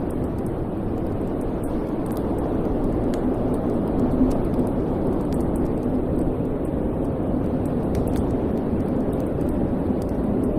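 Wood fire burning in a fireplace: a steady low rumble of flames with small, scattered crackles and pops.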